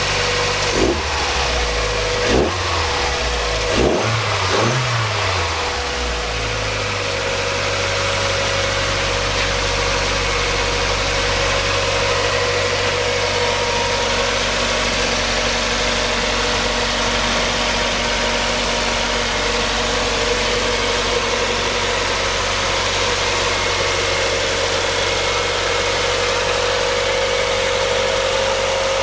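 1999 Mazda Miata 1.8-litre four-cylinder engine revved up a few quick times in the first several seconds, then settling to a steady, smooth idle.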